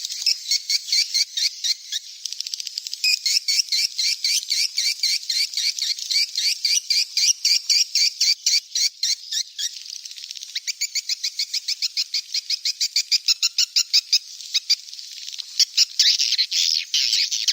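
Swiftlet chicks calling: a dense, unbroken run of rapid high chirps, about five a second. It is a recorded swiftlet call track of the kind played to draw swiftlets in to roost.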